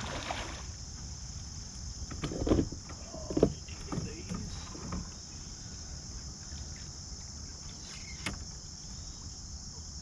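Steady high-pitched drone of late-summer insects, crickets or cicadas, over a low rumble, with a few knocks and thumps from handling in a kayak, the loudest about three and a half seconds in.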